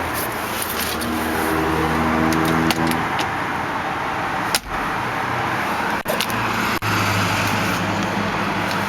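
Steady motor-vehicle engine noise with a pitched hum that fades after about three seconds and returns near the end, broken by a few sharp clicks.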